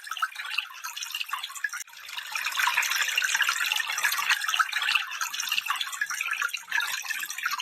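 Running stream water, a steady splashing, bubbling rush. It briefly drops out just under two seconds in, then comes back a little louder.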